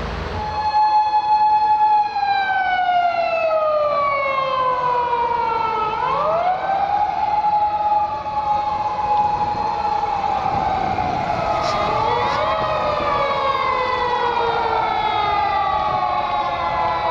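Emergency vehicle siren wailing: a steady tone held for a couple of seconds, sliding slowly down, then sweeping quickly back up, in a repeating cycle. A second siren, out of step with the first, joins about ten seconds in.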